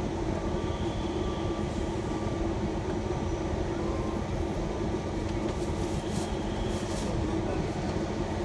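Steady engine and road drone inside a shuttle van's cabin, with a constant low hum.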